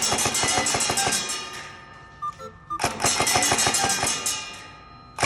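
S&T MINIMI airsoft electric gun firing long strings of rapid shots, each shot a sharp crack with the gearbox cycling. The first string tails off about two seconds in, and a second starts near the three-second mark and fades out in turn.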